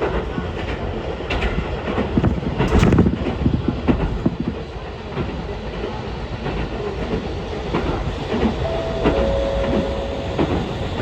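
Ichibata Electric Railway train running along the line, heard inside the car: a steady low rumble with the wheels clicking over rail joints. A short steady whine comes in about nine seconds in.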